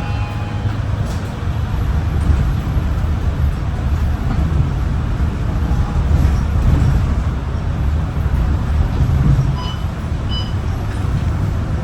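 MAN ND323F double-decker bus under way, heard from on board: the engine and drivetrain run as a steady low rumble that swells and eases a few times, with road noise.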